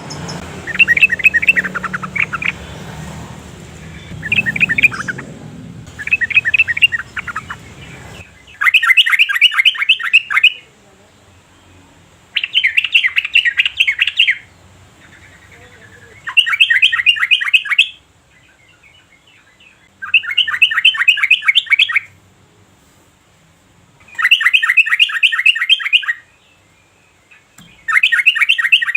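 Yellow-vented bulbul singing in bubbly phrases of rapid notes. At first the phrases are short and uneven, over a low background hum. From about eight seconds in the hum stops, and the song settles into a regular pattern: phrases of about two seconds, each followed by a pause of about a second and a half.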